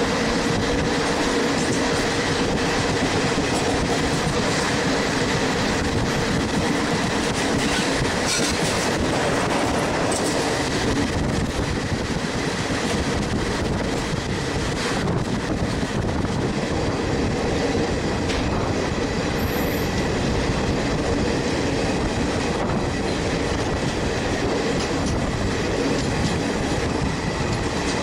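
Indian Railways passenger train running at speed, heard from on board: a steady loud rumble of wheels on rails with a faint steady hum, and now and then a clack over rail joints.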